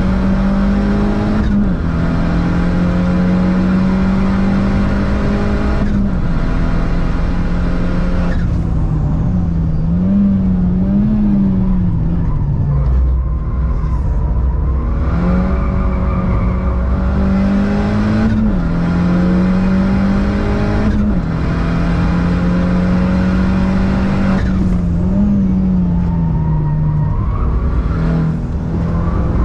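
Citroën DS3 Racing's turbocharged four-cylinder engine driven hard around a circuit. The note holds high, then drops sharply at each upshift, and wavers up and down under braking and downshifts several times.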